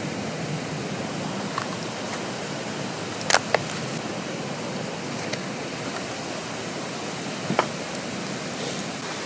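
Mountain stream rushing steadily, with a few sharp pops or clicks over it, the loudest a quick pair about a third of the way in and another near the end.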